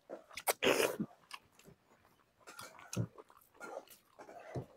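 Close-miked eating sounds of people chewing chicken and rice eaten by hand: wet chewing, lip smacks and small clicks, with a louder burst of mouth noise about half a second to a second in.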